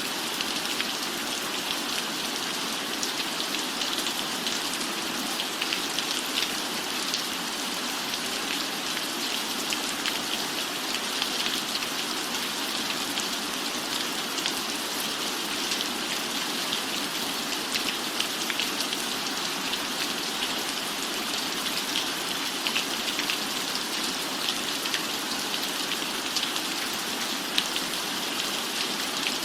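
Steady rain falling, an even hiss with many small, sharp drop taps scattered through it.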